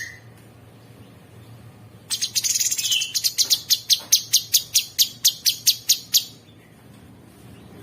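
Cucak sungkok bird giving a harsh, rattling series of sharp high notes. It begins about two seconds in, fast at first, then slows to about four notes a second before stopping.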